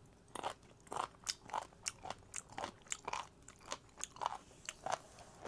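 A person chewing crunchy food, a quick run of sharp crunches about three a second that starts just under half a second in.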